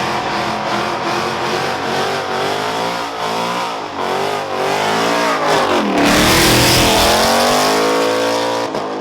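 Mustang's engine revving up and down several times. About six seconds in it pulls out hard: the revs climb steadily under a loud rush of noise.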